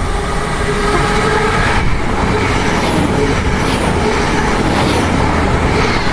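Class 800 express train passing through the station fast without stopping: a loud, steady rush of wheels and running gear that builds just as it begins.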